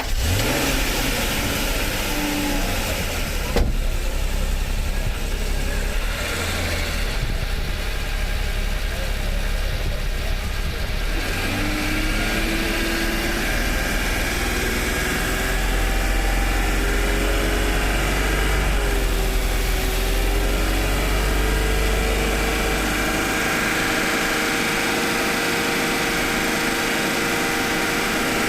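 Honda NSX-R's V6 engine catching at start-up and settling into a steady idle. Its pitch steps up a little about eleven seconds in and then holds.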